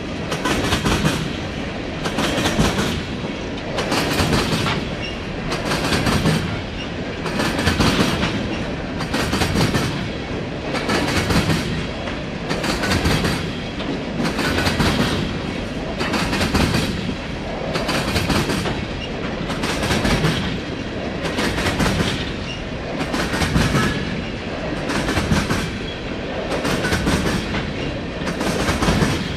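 Empty BNSF coal train rolling by at a steady speed, its car wheels clacking over the rail joints. A loud burst of clickety-clack comes about every second and three-quarters in an even rhythm.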